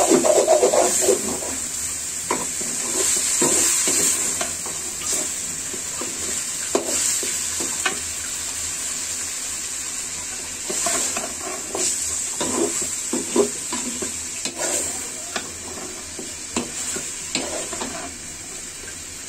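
Chicken pieces in spice paste sizzling in a metal pan over a gas flame, stirred with a steel spoon that scrapes and knocks against the pan again and again over the steady sizzle. This is the kosha stage, the meat being browned in the masala and oil.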